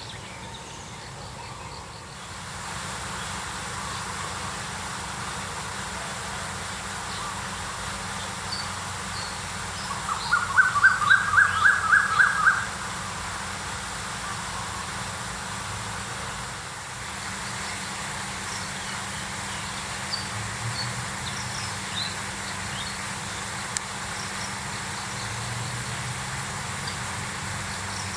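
Birds chirping faintly over steady outdoor background noise, with one loud run of about nine quick, evenly spaced call notes at about ten seconds in, rising slightly in pitch.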